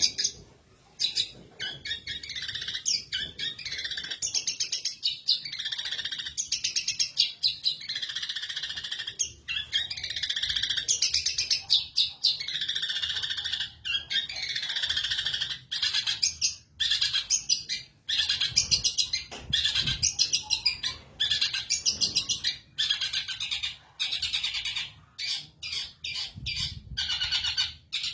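Long-tailed shrike (cendet) in full song: a long, rapid, high-pitched chattering warble delivered in extended phrases several seconds long, separated by short pauses.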